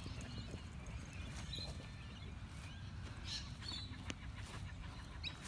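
Faint, scattered bird chirps, a few short calls spread across several seconds, over a steady low rumble.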